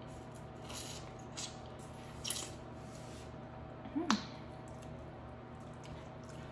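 Close-miked eating sounds of a person chewing seafood: a few short wet chews and mouth clicks, the loudest about four seconds in, over a steady low hum.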